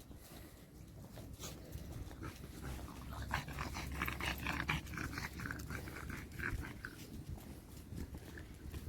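A dog panting in quick, rhythmic breaths, about four or five a second, starting about three seconds in and fading after about seven.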